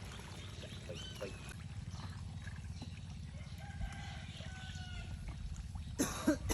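A rooster crowing faintly over a steady low rumble, with a short louder noise about six seconds in.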